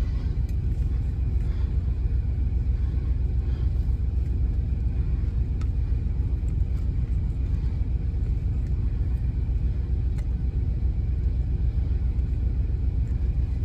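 Steady low rumble of an idling truck engine, with a few faint clicks.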